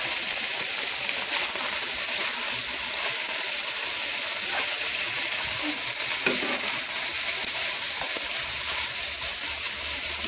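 Starch-coated beef and onions frying in oil in a skillet and a wok: a steady sizzle, with a utensil stirring and scraping the pan a few times.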